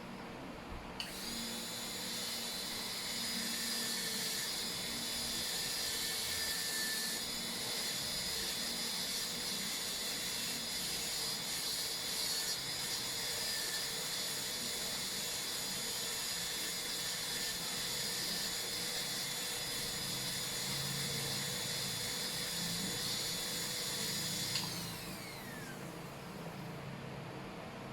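High-speed dental handpiece (air-turbine drill) whining steadily as it cuts a Class II cavity preparation in a tooth. It starts about a second in, and near the end it spins down with a quickly falling whine.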